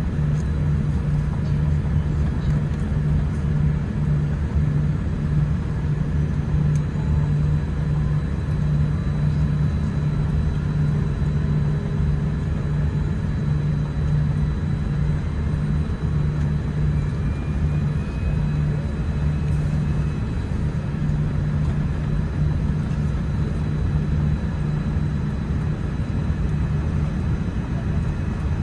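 Steady cabin noise inside a Boeing 787-10 airliner on the ground: an even low hum and rumble from the aircraft's engines and air systems.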